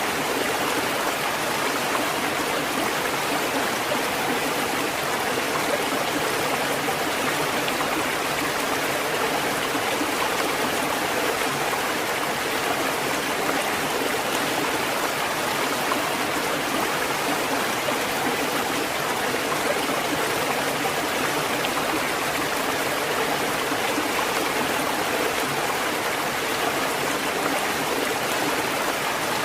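Steady rushing water, an even unbroken hiss with no rise and fall of breaking waves.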